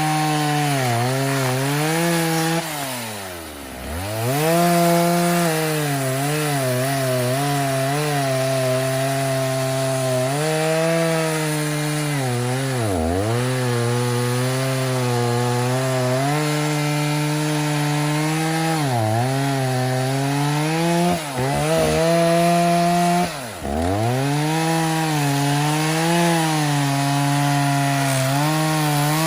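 Freshly rebuilt Stihl 029 two-stroke chainsaw with a 45 mm cylinder, running hard and cutting wood, its pitch wavering as the chain loads up. Several times the revs drop off sharply and climb straight back, the deepest drop about four seconds in.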